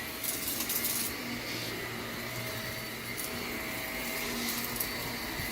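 Vacuum cleaner running steadily: a motor hum with a high whine, and brief surges of hiss in the first second.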